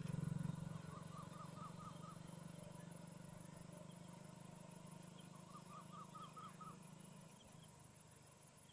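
Faint outdoor evening sound: a bird gives two quick runs of about six short chirps each. Under it is a low steady hum, loudest at the start, that fades away over about seven seconds.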